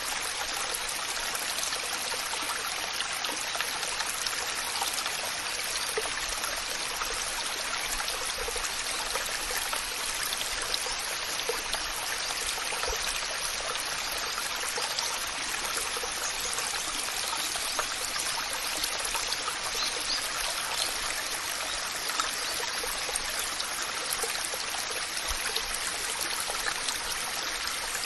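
Waterfall: water falling and splashing in a steady, even rush, with small splashes and trickles scattered through it.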